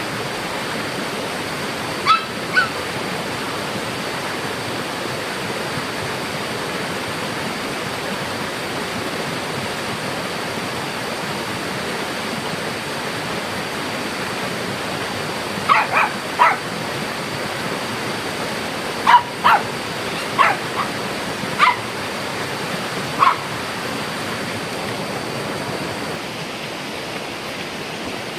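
A dog barking in short yips: two about two seconds in, then three around the middle and a run of about six more, over a steady rushing noise.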